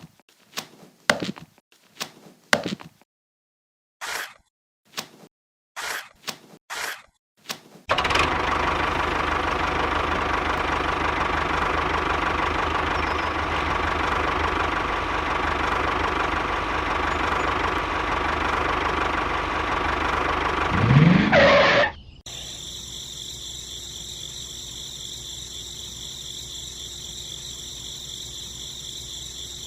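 A few separate knocks and clicks. About eight seconds in, a motor starts running steadily for some thirteen seconds, swells with a quick rise in pitch and cuts off. A quieter, steady high-pitched motor whine follows.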